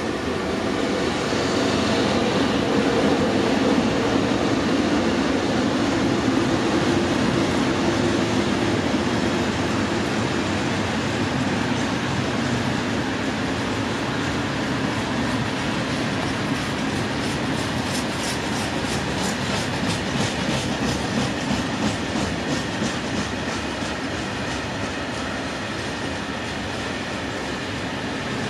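Freight train passing: the tail of a twin-section ET42 electric locomotive goes by, followed by a long string of open freight wagons rolling steadily past. The wheels click over rail joints in a quick, even rhythm in the later part.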